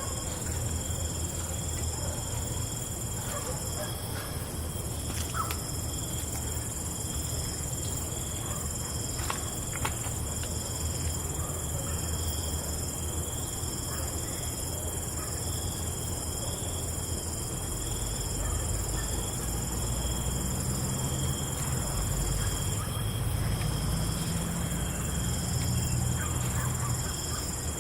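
Crickets trilling in a steady, high-pitched chorus over a low ambient music drone that shifts pitch slowly and swells in the second half, with a few faint clicks.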